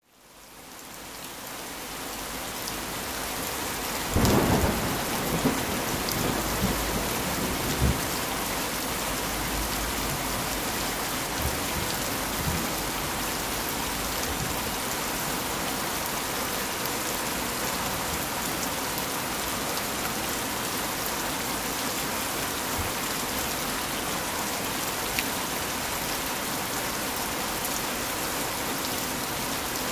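Heavy rain falling steadily, fading in over the first couple of seconds. About four seconds in comes a thunderclap, followed by a few seconds of rumbling thunder.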